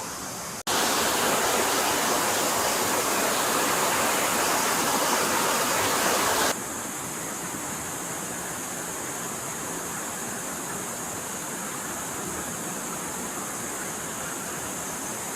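Stream water flowing steadily over rocks, a continuous rushing. It jumps abruptly louder just under a second in and drops back abruptly about six and a half seconds in, then runs on steadily.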